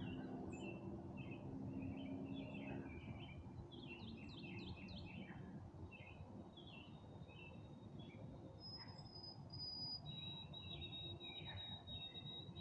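Songbirds chirping and calling, several at once, in quick short notes over a faint low rumble. From about two-thirds of the way in, a thin high whistle-like tone holds steady for several seconds.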